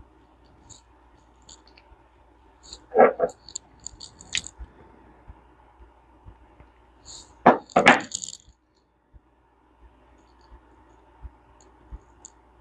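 Small metal parts of a push-button spincast fishing reel clicking and clinking as they are handled during reassembly, with two louder clattering knocks, about three seconds in and again near eight seconds.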